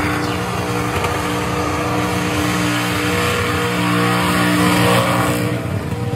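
Supercharged V8 engine of a Holden Commodore burnout car held at high, steady revs during a burnout, over the hiss of the spinning rear tyres.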